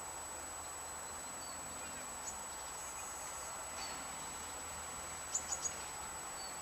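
Faint bird chirps over a steady background hum: a few short, high single chirps, then three quick chirps about five seconds in.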